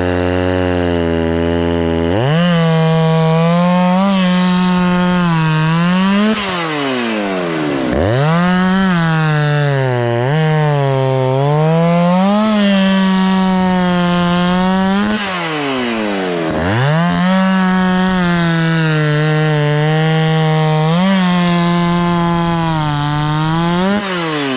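Stihl chainsaw at full throttle cutting through logs, the engine pitch dipping as the chain loads in the wood. Twice it drops back to idle and revs straight up again.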